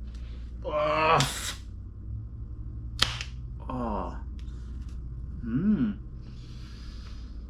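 A man's wordless vocal sounds while tasting something: a loud drawn-out groan-like sound about a second in and shorter ones later, which he follows by calling it delicious. A single sharp click comes about three seconds in and a breathy hiss near the end, over a steady low hum.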